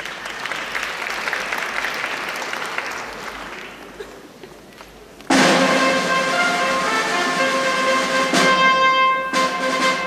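Audience applauding, dying away over about four seconds. Then, about five seconds in, an orchestra suddenly strikes up the introduction to the song with loud sustained chords.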